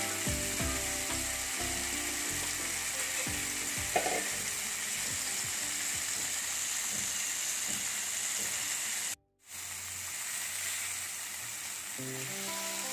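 Fish tikka pieces shallow-frying in oil in a non-stick pan: a steady sizzle, with a sharp knock about four seconds in. The sizzle drops out for a moment just after nine seconds, and soft background music comes up near the end.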